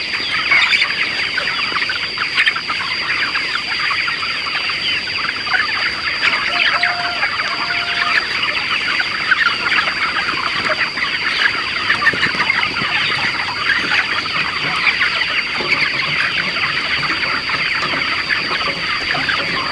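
A large flock of chickens clucking and calling all at once in a dense, continuous din. A steady high-pitched whine runs underneath throughout.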